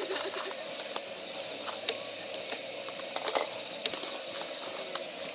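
Wood campfire crackling, with sharp pops scattered through it, the loudest cluster about three seconds in, over a steady high-pitched whine.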